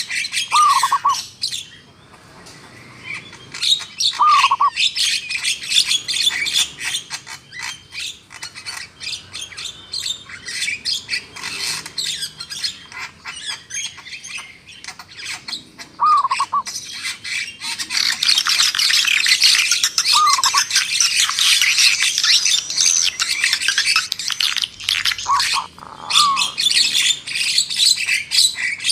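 Several wild birds calling together in a forest chorus: rapid high chirps and trills throughout, growing dense and busy past the middle, with a short, lower, down-slurred call repeated about five times.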